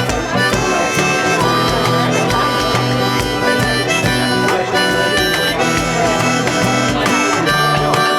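Instrumental break of an Irish folk ballad: a reedy lead melody instrument over guitar accompaniment, with a steady beat.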